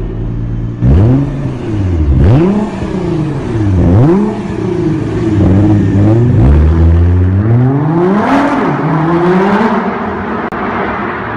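Ford Mustang GT's 5.0-litre V8 heard through a tuned aftermarket exhaust: it idles, then three sharp throttle blips, each falling straight back, then a slower, longer rev that climbs and eases back to idle.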